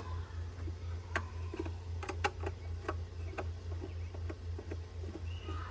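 Light, irregular clicks of a screwdriver backing out the pump motor's stainless steel mounting screws on an Aquabot pool robot vacuum, over a steady low hum.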